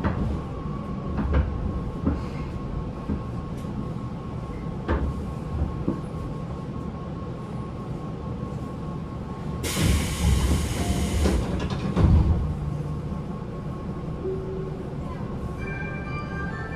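Running sound inside a Tobu 9050 series electric train car at speed: wheels rumbling and clicking over rail joints, with the air conditioning running and a steady hum. A burst of hiss comes about ten seconds in, and near the end stepped whining tones from the Toyo GTO-VVVF inverter drive come in.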